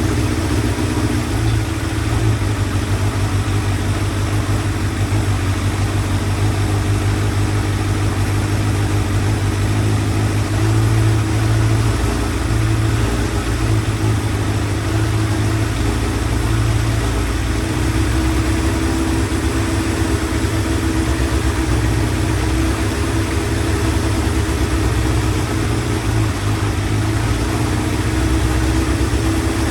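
Motorcycle engine idling steadily, with slight rises and falls in its note. The owner suspects a vacuum leak, which he blames for its revs hanging.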